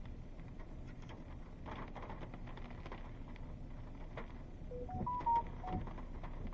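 A quick run of about five short electronic beeps at changing pitches, stepping up and then down, about five seconds in, among faint scattered clicks over a low steady background noise.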